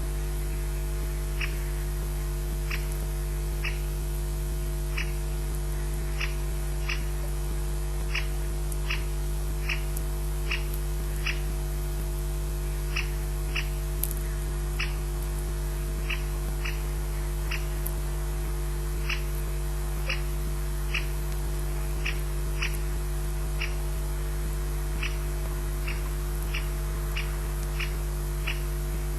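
An unseen animal's short high-pitched call, repeated over and over about once a second at an uneven pace, over a loud steady electrical mains hum.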